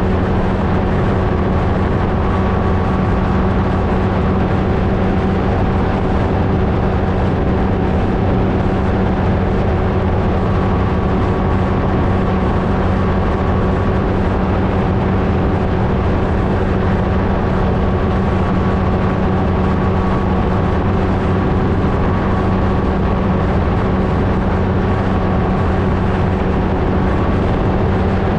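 Flightstar II ultralight's two-stroke Rotax engine and propeller running steadily at constant power, an even drone with a rushing noise under it.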